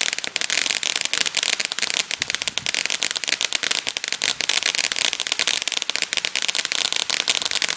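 A firework crackling: a rapid, continuous run of small sharp pops.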